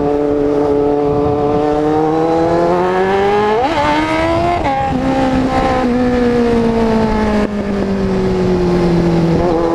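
Kawasaki Z750 inline-four engine pulling under way, heard from the rider's position with wind rush. Its pitch climbs steadily for a few seconds, flares and drops at a gear change about five seconds in, then falls slowly as the bike eases off.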